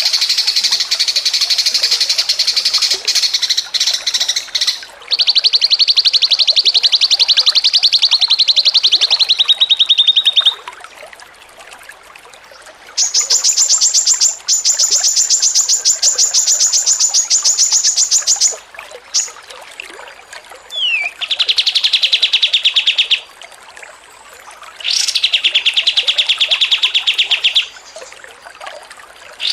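Songbird chattering in fast, even, high-pitched trills, in bouts of a few seconds separated by short pauses. A single short falling note comes before one of the bouts. This is the rapid 'ngocor receh' chatter used as masteran recordings to train songbirds.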